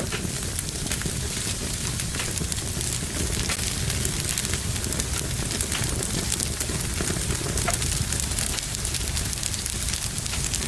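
Wood fire burning in a fireplace: a steady hiss and low rumble of flames with many small sharp crackles and pops scattered through it.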